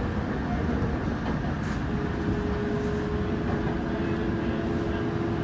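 Electric train running along the line, with a steady rumble of wheels on rail. A steady hum joins in about two seconds in.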